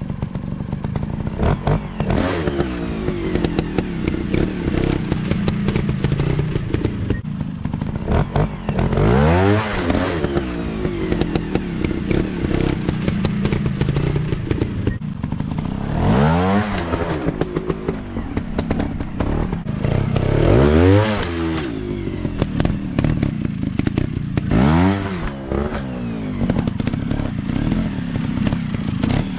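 Small single-cylinder dirt bike engines running off-road, revving up hard and dropping back four times over the stretch, with a rough, uneven idle and throttle blips in between.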